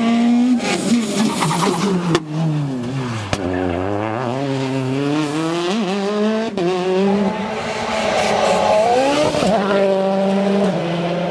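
Rally car engine revving hard on a stage. The pitch drops steeply as it slows about three seconds in, then climbs again through the gears, with further lifts and rises. Tires squeal at times, and the sound breaks off abruptly twice.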